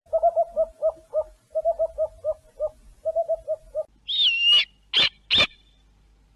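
Owl calling: three quick runs of short low hoots, four or five to a run, then a loud high screech and two short sharp calls about a second later.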